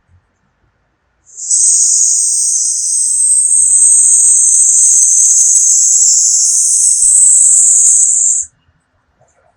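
A person exhaling one long hissing "sss", the Taoist healing sound for the lungs. It is held for about seven seconds and cuts off sharply.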